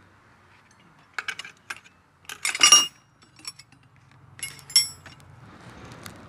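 Metal tools and engine parts clinking and clattering against each other in short groups of sharp, briefly ringing clinks. The loudest cluster comes about two and a half seconds in, with another pair of clinks near the five-second mark.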